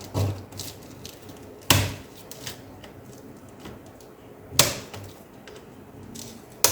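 Sharp plastic clicks from the Asus X541UA laptop's case clips snapping loose as the panel around the keyboard is lifted and pried up, a few clicks a couple of seconds apart.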